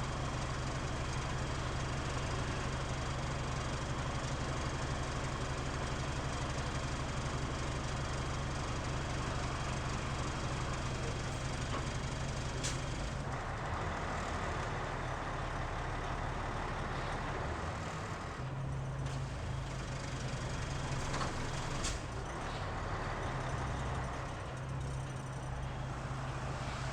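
Mitsubishi Fuso KL-MP37JK city bus diesel engine heard from inside the cabin, idling with a steady low hum and the heavy idle vibration this bus is known for. About halfway through, after a sharp click, the engine note changes, and the low hum comes back later.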